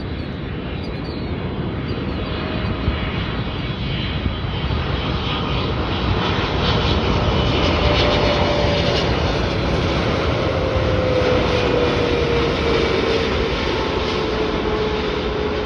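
Boeing 777-300ER's twin GE90 turbofan engines on a landing approach, passing close. A steady jet rush builds to its loudest about halfway through, and a whining tone slides down in pitch in the second half as the airliner goes by.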